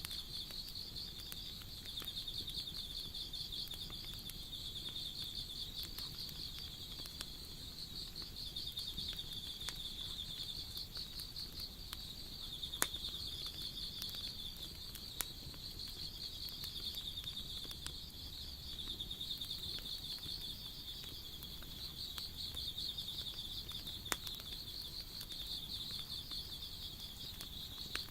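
Insects chirping in a steady, high, pulsing trill, over the scattered sharp crackles and pops of burning wood in a campfire; the loudest pop comes about 13 seconds in.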